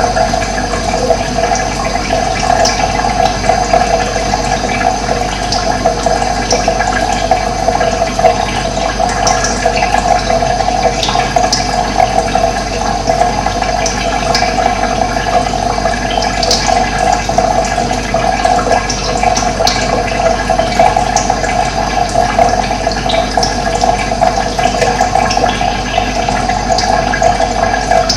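Running water rushing steadily, with occasional short, high bird chirps over it.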